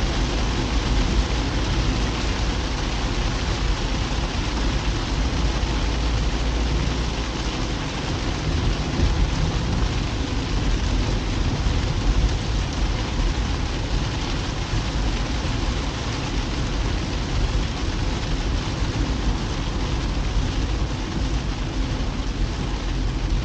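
Steady rain falling on a moving car, mixed with a constant low rumble of tyres and engine on the road.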